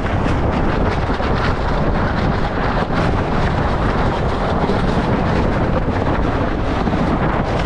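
Steady wind noise buffeting the microphone of a camera aboard a sailboat under way, a dense rushing roar heaviest in the low end.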